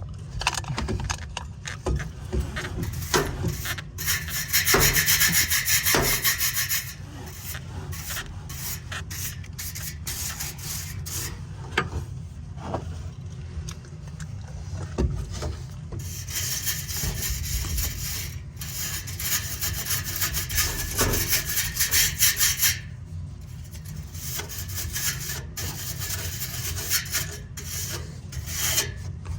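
Dust being scrubbed off the vanes of an American Standard gas furnace's blower wheel. It makes a raspy rubbing in rapid, closely spaced strokes, loudest about four to seven seconds in and again from about sixteen to twenty-three seconds, with scattered clicks in between.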